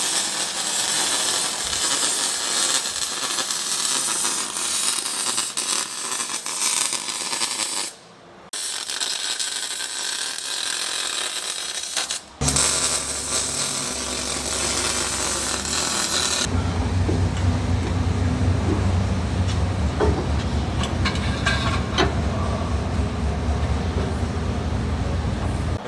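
Welding on a steel exhaust pipe: a continuous crackling sizzle in long runs, broken by two short pauses. In the last ten seconds a low steady hum takes over.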